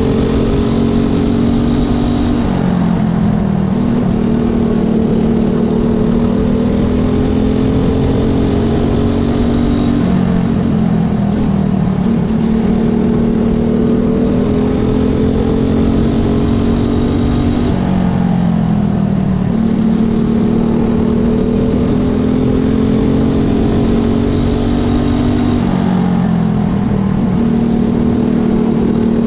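Small youth racing motorcycle engine held at high revs, backing off briefly and building back up in a regular cycle about every eight seconds.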